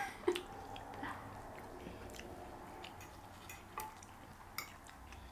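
Soft chewing of enchiladas, with a few faint clicks of a fork against a plate now and then.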